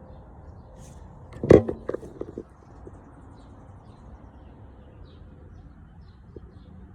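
Faint, scattered bird chirps over a steady low hiss, with a sudden clatter of several sharp knocks about one and a half seconds in, the loudest sound.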